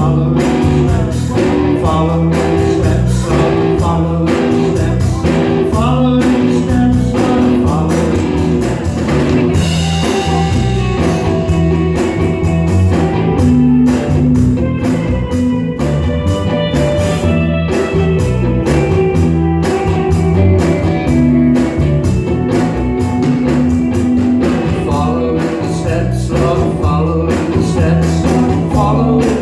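Live rock band playing a song with electric guitars, bass guitar and drums.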